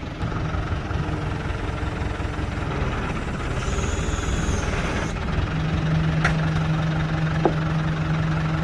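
Engine running steadily with a low rumble, and a steady hum joining about five seconds in.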